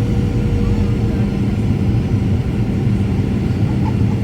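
Steady cabin noise inside a Ryanair Boeing 737 on approach: a loud, even low rumble of engines and airflow, with a faint steady hum running through it.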